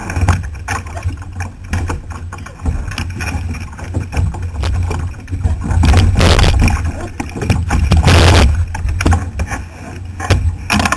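Kayak paddling: paddle strokes splashing and knocking in the water, with a steady low rumble and two louder rushing surges of water noise about six and eight seconds in.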